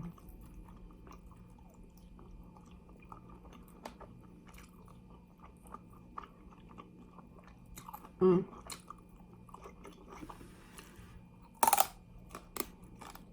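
Close-up chewing of fried chicken wings: steady small wet clicks and crunches, with one loud crunch of a bite near the end.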